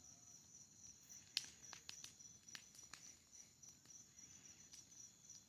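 Faint, steady pulsing chirps of crickets, with scattered sharp pops and crackles from a burning wood bonfire, the loudest pop about a second and a half in.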